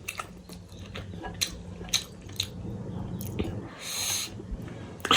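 A person eating close to the microphone: a few sharp crunches and clicks of chewing, and a short hissing slurp about four seconds in, over a low steady hum.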